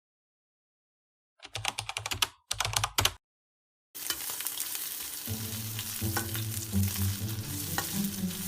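Two short runs of rapid clicking from kitchen utensils, then a steady sizzle of food frying in a pan. Background music comes in about a second after the sizzle starts.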